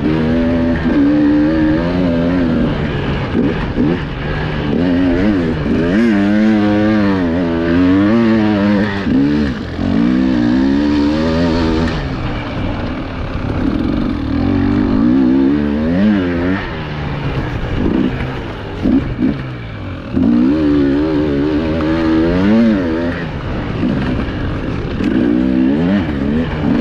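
Enduro motorcycle engine heard from the bike, revving up and down continuously as the throttle is worked, its pitch rising and falling every second or so.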